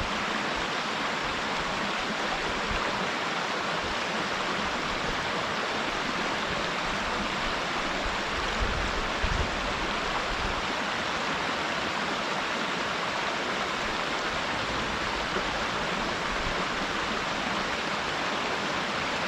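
Waterfall pouring steadily into a mountain stream, an even rushing of water, with a few brief low thumps about nine seconds in.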